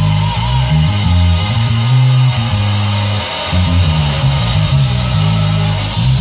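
Bass guitar playing a busy line of short, quickly changing low notes over a full gospel backing track.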